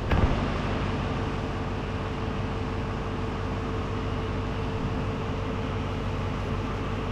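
Boom truck engine idling steadily, with a steady whine joining in about a second in. A few quick metal clanks come right at the start.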